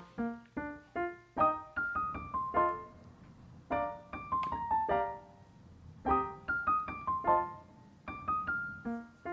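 Gentle solo piano music: single notes played in short phrases, each note fading, with brief pauses between phrases.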